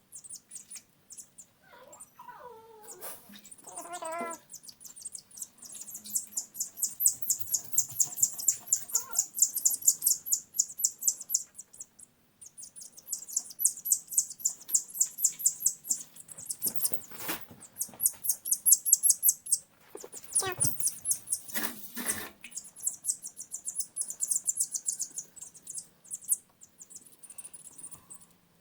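Baby chicks peeping rapidly and continuously in high, fast strings of peeps. A few knocks come about two-thirds of the way through.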